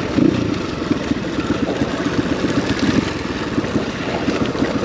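Dirt bike engine running under way, its exhaust pulsing in a quick, uneven patter, with wind on the microphone.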